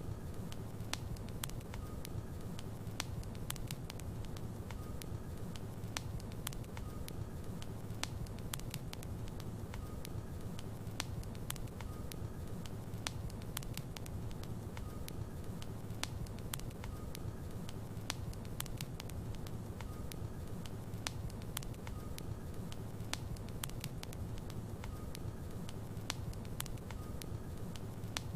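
Wood fire in a fireplace burning, with a steady low rumble of the flames and frequent sharp crackles and pops of the logs.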